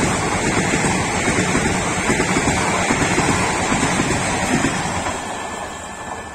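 Teesta Torsha Express coaches passing a station platform at speed: a loud, steady rush of wheel and air noise that fades away from about five seconds in as the last coach goes by and the train recedes.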